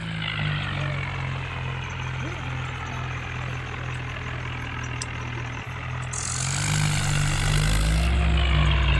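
Tractor engine running steadily, growing louder about six to seven seconds in.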